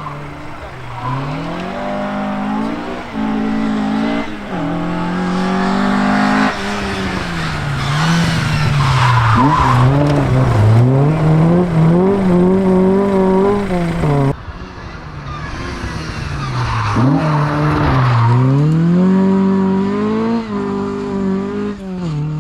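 Rally car engine at full throttle, climbing through the gears with quick upshifts. It then lifts off and picks up again several times, and pulls hard through the gears once more after a cut about two thirds of the way in.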